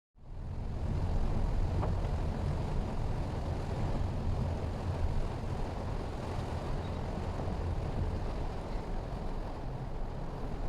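Steady low rumble of a Mitsubishi Xpander being driven, road and engine noise that cuts in abruptly from silence.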